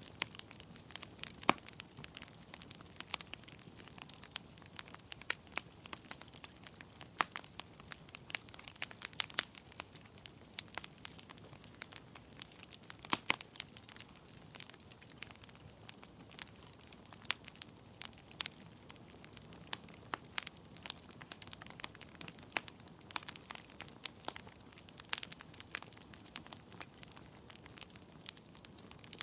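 Wood fire of burning logs crackling, with irregular sharp pops and snaps over a low steady rush of flames, the loudest pops about a second and a half in and near the middle.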